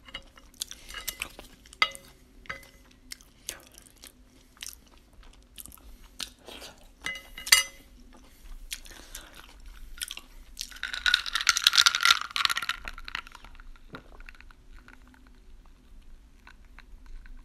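Close-miked chewing of a mouthful of food, with wet mouth clicks at first and a dense, loud stretch of crunching about ten seconds in.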